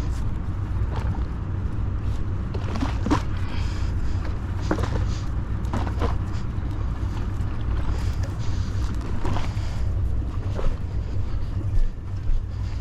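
Boat engine running steadily with a low rumble, with scattered short knocks and clicks.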